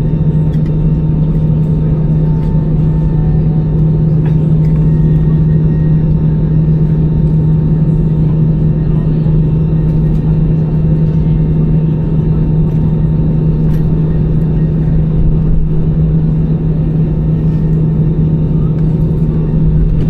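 Steady cabin noise inside an Airbus A320-200 on the ground after landing: a constant low hum over a dense rumble, unchanging throughout.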